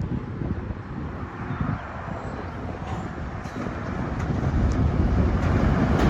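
Approaching Metro-North train, a diesel locomotive and its cars, rumbling and growing steadily louder over the last few seconds as it nears.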